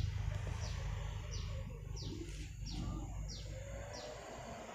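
A bird calling over and over, about six short high chirps in a row, each falling in pitch, roughly one every two-thirds of a second, over a low steady rumble.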